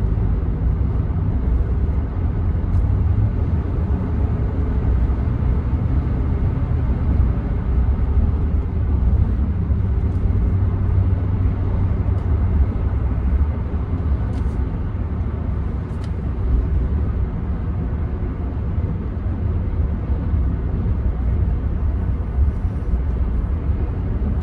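Cabin noise of a 2014 Ram 1500 pickup with the 5.7 Hemi V8 driving along: a steady low drone of engine, tyres and road, with a few faint ticks.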